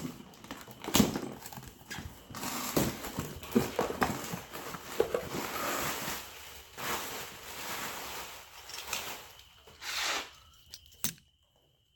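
A cardboard parcel being unpacked by hand: packaging rustling and crinkling, with scattered knocks and clicks as the box and its contents are handled. The sound stops abruptly near the end.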